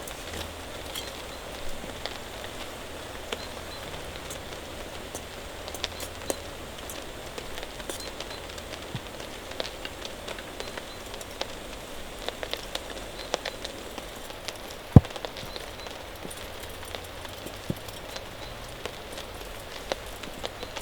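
Steady rain falling, with scattered single drops ticking sharply on a surface and one louder tick about three-quarters of the way through.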